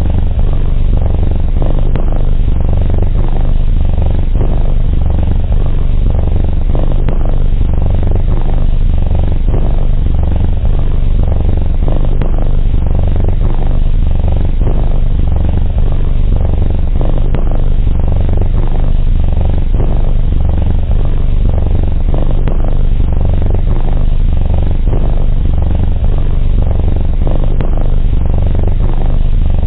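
Domestic cat purring close to the microphone, a steady low purr that swells and eases every second or two.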